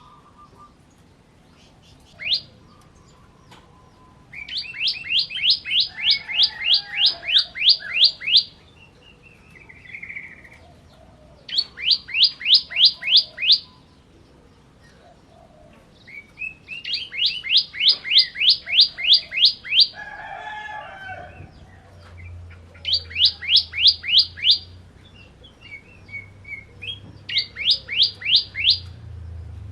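A ciblek kristal, a bar-winged prinia, singing: fast series of sharp chirps, about four a second, in bursts of two to four seconds with short pauses between.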